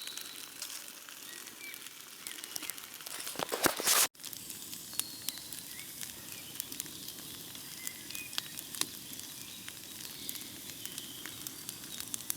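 Small campfire of birch bark and dry twigs crackling and hissing as it catches, with many sharp pops. About three and a half seconds in comes a louder rush of noise that cuts off abruptly.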